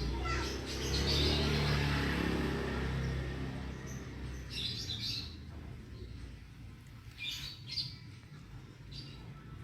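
Small birds chirping in short bursts every couple of seconds. A low rumble swells and fades over the first few seconds.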